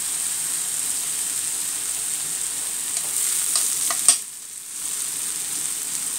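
Crushed boiled potatoes and onions sizzling in oil and sweet-and-sour sauce in a nonstick frying pan. A wooden spatula scrapes and taps the pan a few times around three to four seconds in, with one sharp knock just after four seconds; the sizzle dips for about half a second, then carries on.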